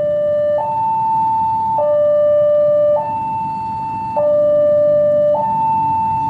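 Two-tone electronic siren alternating evenly between a lower and a higher tone, each held a little over a second, repeating steadily over a low rumble.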